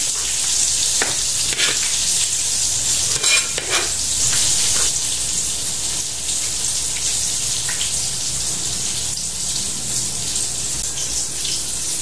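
Steady sizzling of pork intestines deep-frying in hot oil into chicharon bulaklak. A few sharp knife chops on a cutting board sound in the first few seconds.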